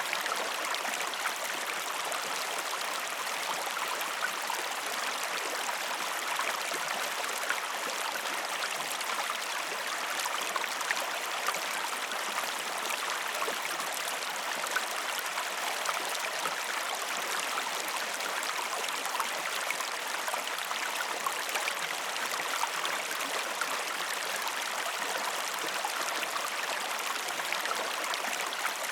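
Flowing stream water, a steady even rush with small scattered splashes and trickles.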